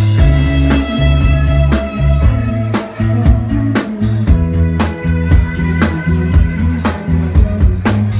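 Rock band playing a slow song live, with guitar over a heavy low end and drum-kit hits about once a second.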